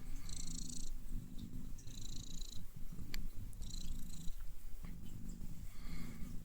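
Domestic cat purring steadily while being brushed, with a brush swishing through its fur about every second and a half.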